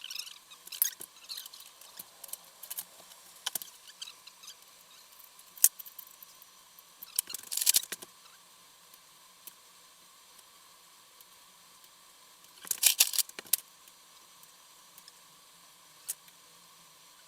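Scattered light metallic clicks and clinks of hand tools and engine parts being handled, with two short rattling clusters about seven and thirteen seconds in, over a faint steady hum.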